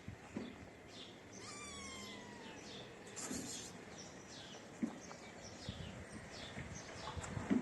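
A kitten mews once, about a second and a half in, a single drawn-out cry falling in pitch, over repeated short high bird chirps. A few soft knocks come later.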